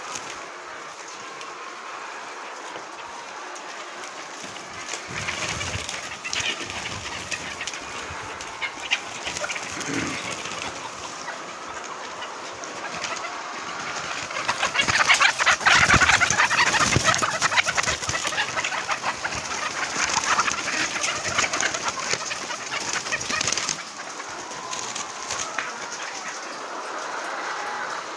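A flock of chickens clucking and calling over one another, loudest about halfway through.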